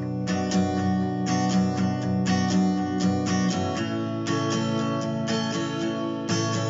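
Acoustic guitar strummed in a steady rhythm, with no singing; the chord changes about four seconds in and again near the end.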